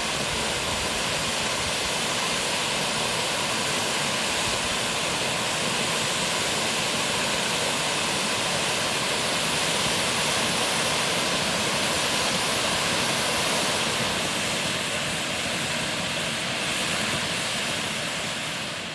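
Two firework fountains (Bugano Gold Rain and Smaragd) spraying sparks with a steady loud hiss. The hiss dies away near the end as the fountains burn out.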